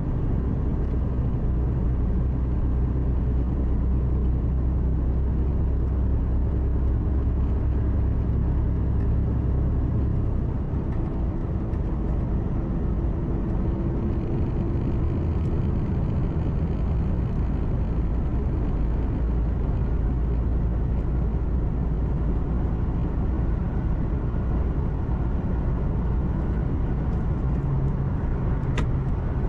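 Heavy truck's diesel engine and road noise heard inside the cab while driving, a steady low drone. The engine note changes about ten seconds in, with a brief dip in loudness, and a single sharp click sounds near the end.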